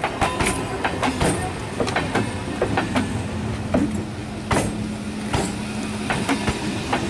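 Indian Railways electric multiple unit (EMU) passing close by, its wheels clacking sharply and irregularly over the rail joints as coach after coach goes past. A low steady hum joins in for a few seconds in the middle.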